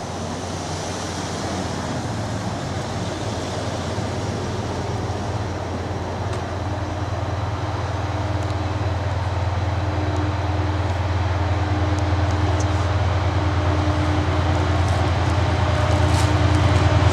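Class 68-hauled diesel passenger train approaching: a steady low drone grows steadily louder as it nears, with a few brief faint high squeals near the end.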